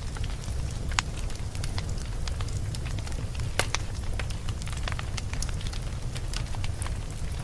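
Fire burning in a fireplace: a steady low rumble with scattered sharp crackles and pops, the loudest pops about a second in and again past three and a half seconds.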